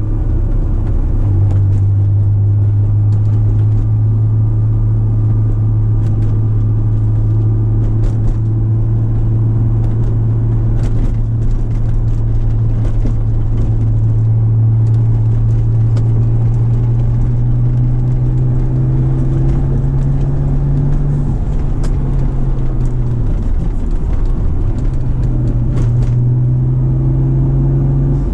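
Science of Speed twin-turbocharged 1999 Acura NSX's V6 running steadily through its Pride exhaust at city cruising speed, fully warmed up and quiet, with a low even drone. The pitch climbs a little about twenty seconds in, falls away briefly a few seconds later, then settles back to a steady drone.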